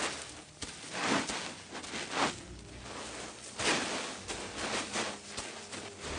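Namaqua chameleon's feet stepping on loose desert sand: soft gritty crunches and rustles, about one step a second.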